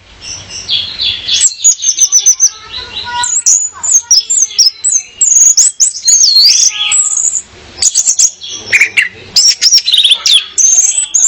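Orange-headed thrush singing: a rapid, varied run of high whistles, slurred notes and quick trills, broken by brief pauses.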